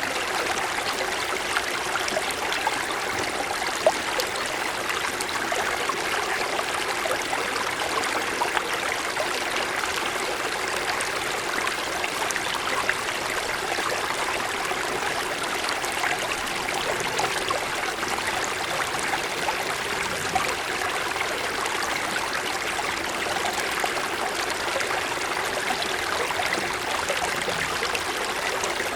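Mountain stream flowing over snow-covered stones: a steady babbling and trickling of water.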